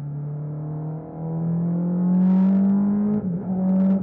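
Suzuki Hayabusa inline-four motorcycle engine in an open-cockpit Mk Indy, heard from the driver's seat. The engine note climbs steadily under acceleration, dips briefly a little after three seconds in, then carries on.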